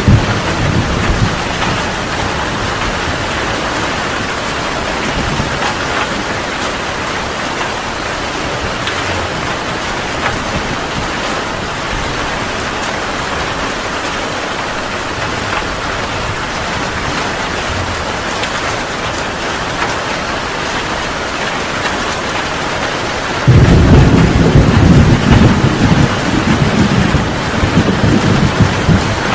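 Heavy rain falling steadily in a dense hiss. About six seconds before the end, a loud, low thunder rumble breaks in suddenly and keeps rolling.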